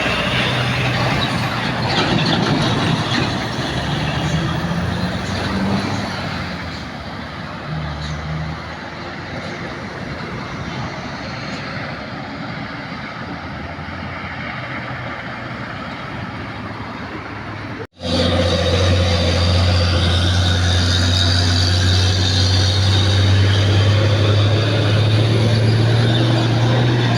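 Old truck engine running under load, with road and traffic noise. After a sudden break about two-thirds of the way in, a louder, steady low engine drone takes over and rises slightly in pitch.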